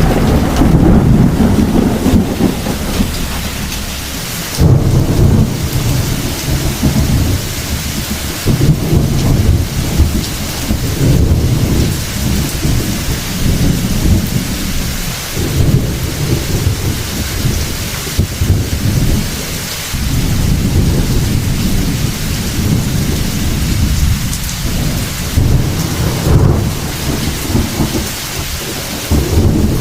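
Heavy thunderstorm: steady rain falling, with low thunder rumbling in rolls that swell and fade every few seconds.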